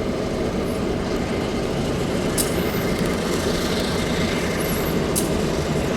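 Train running on the rails with a steady rumble, broken by two sharp clicks, one a little before the middle and one near the end, and a couple of brief high squeaks.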